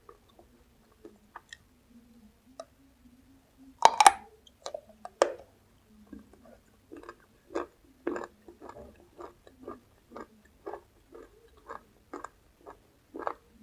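Close-miked eating of raw vegetables: one loud, sharp crunchy bite about four seconds in, then steady chewing, about two chews a second.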